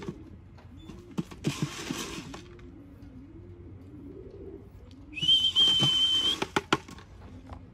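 Racing pigeons cooing over and over, with two bursts of rustling noise. About five seconds in there is a steady high whistle lasting just over a second.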